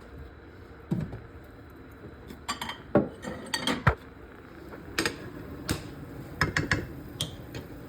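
A utensil knocking and scraping against a karahi while stirring, in irregular clinks and knocks that come in bunches over a low steady background.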